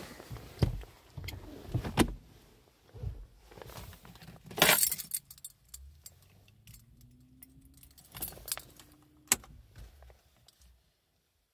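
A bunch of car keys jangling, with sharp clicks and knocks as they are handled at the ignition; the loudest rattle comes a little under halfway through.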